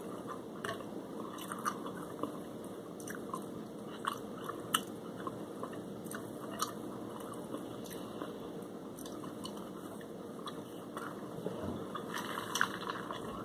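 A person chewing and biting fried shrimp and french fries, with small mouth clicks and smacks scattered throughout and a busier run of them near the end.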